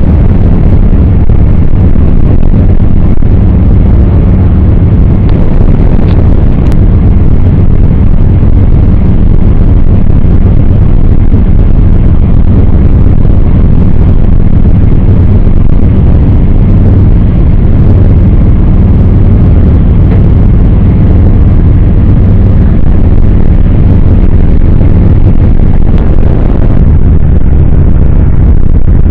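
Steady, loud, low rumble of a passenger train running at speed, heard from inside the carriage.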